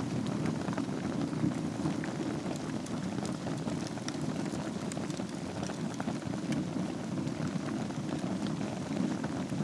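Wood fire burning in a fireplace: a steady low rumble of flames with many small crackles scattered throughout.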